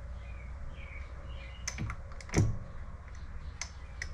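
Scattered sharp metal clicks and taps from the Vevor MX400 mini lathe's carriage being worked in toward a clamped carriage stop, with one louder knock about two and a half seconds in, over a steady low hum.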